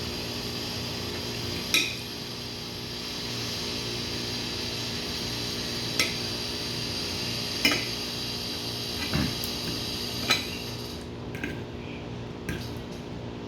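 Fork clinking against a plate a handful of times while pasta is being eaten, over a steady background hum and hiss whose high part drops away about eleven seconds in.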